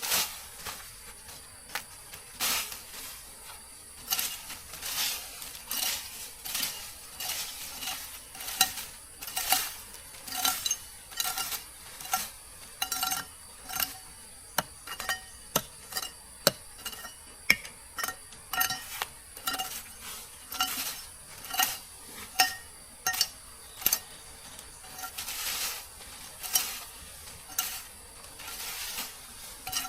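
A utensil stirring and scraping in a pan, with repeated short clinks and scrapes about once or twice a second over a steady sizzle of frying food.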